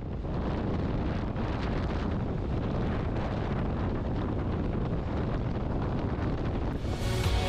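Wind rushing over the microphone with a steady low rumble from a Benelli 702 motorcycle riding at speed. Music comes in near the end.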